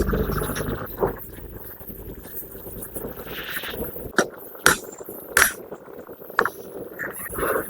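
A few sharp, separate metal knocks and clinks, a second or so apart, as of tools or metal parts being handled, with a low rumble that dies away about a second in.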